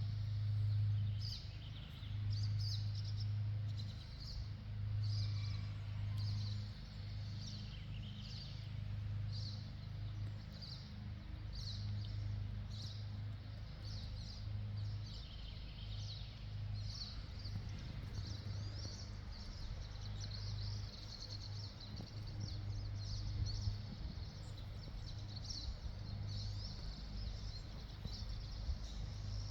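Small birds chirping repeatedly in short high calls, over a steady low hum that swells and dips every second or two.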